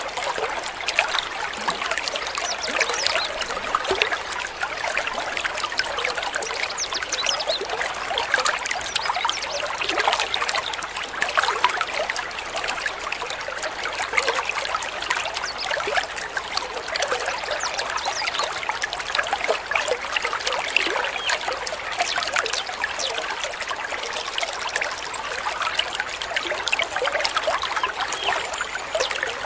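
Stream water trickling and babbling steadily, a dense run of many small splashes and bubbles.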